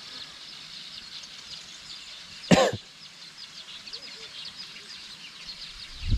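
Many small birds chirping together in a steady high chatter. About two and a half seconds in, a single short cough close to the microphone stands out above them.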